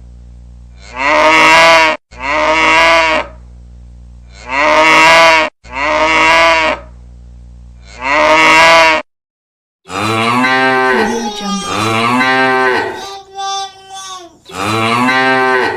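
Recorded cow mooing, looped as a ringtone. There are five short moos of about a second each, and then, after a brief gap, a longer run of moos that waver in pitch.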